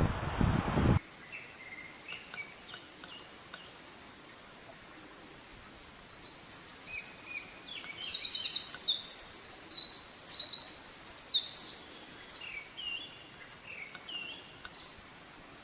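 Small songbird singing: faint scattered chirps, then a loud, rapid run of short high notes from about six seconds in, tailing off into softer notes near the end. Before that, a loud even noise cuts off suddenly about a second in.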